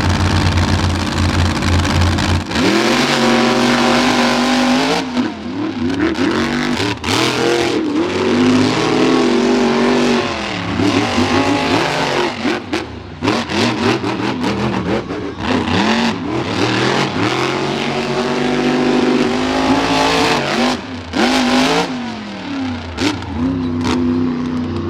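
Two monster truck engines racing head to head. They sit steady and loud on the start line, then launch about two and a half seconds in, and the engine pitch rises and falls again and again as they accelerate and back off around the course.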